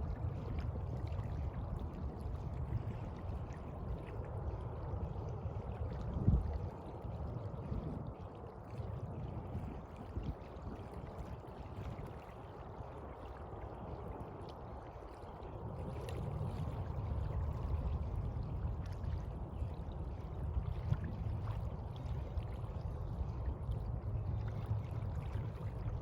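Sea water washing and sloshing continuously over a low rumble, ebbing quieter for several seconds and swelling again about halfway through. A short thump about six seconds in.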